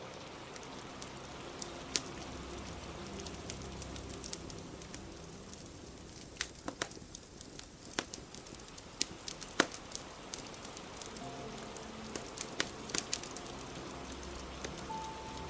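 Wood fire crackling, with scattered sharp pops and snaps over a steady hiss of rain.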